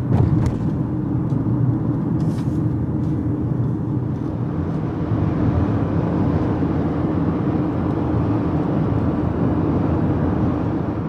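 A motor vehicle running steadily: a continuous low engine and road drone, with a brief knock about a second in.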